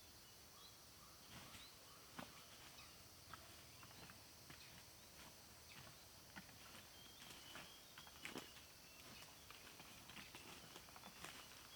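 Very quiet riverside ambience: a steady high insect buzz with faint short chirps, and scattered soft clicks and rustles that grow more frequent near the end.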